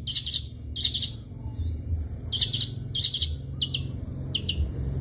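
Long-tailed shrike (pentet) calling in short, harsh, chattering notes, given in quick bursts about every half second to a second, over a steady low hum.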